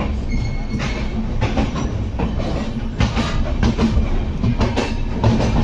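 Passenger train running through a station, heard from beside the coach: a steady low rumble with irregular clickety-clack of the wheels over rail joints.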